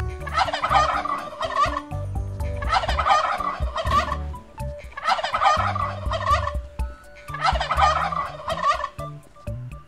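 A turkey tom gobbling four times, each gobble a rapid warbling rattle of about a second and a half, spaced about two and a half seconds apart, over soft background music.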